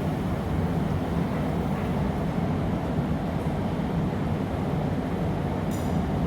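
Steady low roar of a glassblowing studio's furnace and gas-fired glory hole burners. A brief, light metallic clink comes near the end.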